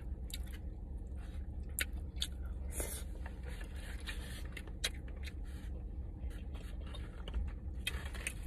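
Close-miked eating sounds: chewing and small mouth noises, with scattered short clicks and scrapes, over a low steady hum.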